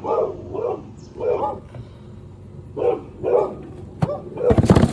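A dog barking repeatedly, about half a dozen short barks, with a loud clatter near the end.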